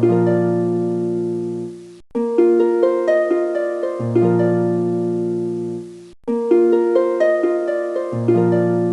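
Background music of plucked, harp-like notes: a short looping phrase that repeats about every four seconds, with a brief break between repeats.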